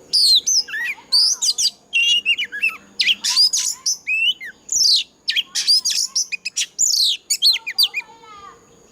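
Oriental magpie-robin singing a loud, rapid run of varied whistles, sweeping notes and short trills: the full song of a mature wild bird, typical of territorial competitive singing. The song breaks off about 8 seconds in, leaving fainter, lower chatter.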